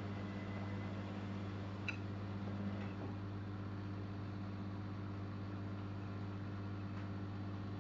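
Zanussi Jetsystem Turbodry ZWD 1000 washer-dryer running with a steady low hum, one sharp click about two seconds in and a couple of light knocks just after.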